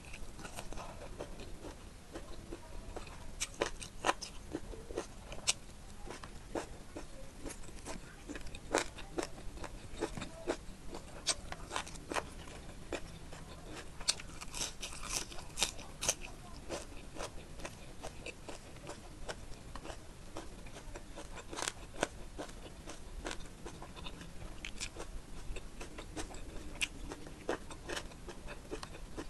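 Close-miked eating: chewing and crunching on spicy chicken curry, rice and raw cabbage, heard as irregular sharp crunches. A quick run of crisp crunches about halfway through, as a raw Napa cabbage leaf is bitten.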